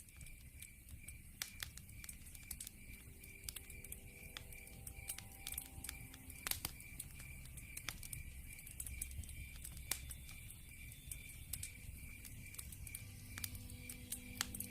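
Wood fire crackling, with irregular sharp pops and snaps, over a steady evenly pulsing high chirp like a cricket's night chorus. Faint sustained musical tones creep in from about three seconds in.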